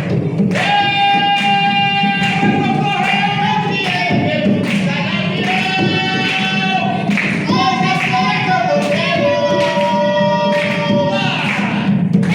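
Jongo song: a voice singing long, held notes over repeated drum strikes.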